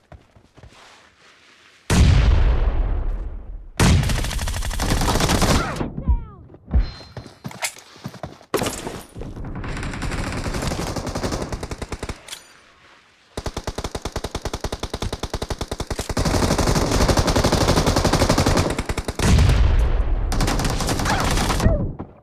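Video-game automatic gunfire: long bursts of rapid fire begin about two seconds in, with a short lull around twelve seconds before another long burst runs to near the end.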